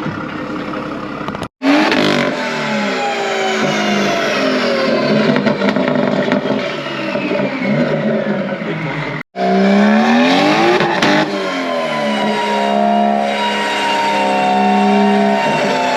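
BMW M140i's turbocharged three-litre straight-six running hard on a chassis dyno, its pitch sweeping up and down as it revs. The sound drops out abruptly twice, about a second and a half in and again near the middle.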